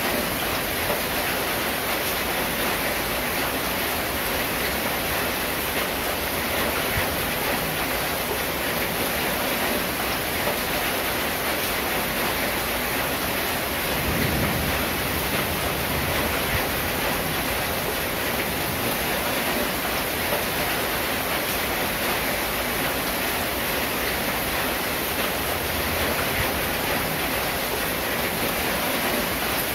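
Steady rain drumming on a corrugated tin roof, an even hiss with no letup. A brief low rumble passes underneath about halfway through.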